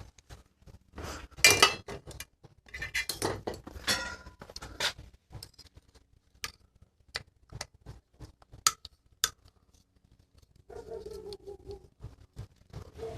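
Metal hand tools and small bike parts clinking and tapping, with a string of sharp clicks, the loudest about a second and a half in. This happens while lock-on grips and brake parts are taken off a mountain bike's handlebar. Near the end comes a squeaky rubbing sound, twice.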